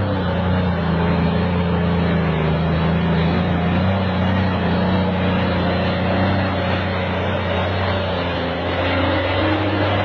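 Engine of heavy construction machinery running steadily, a low, even drone.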